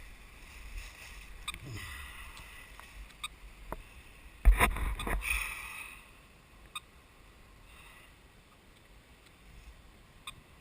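Footsteps and brushing through dry leaf litter and woodland undergrowth, with scattered snaps and a louder crunching rustle about four and a half seconds in; it is quieter in the second half.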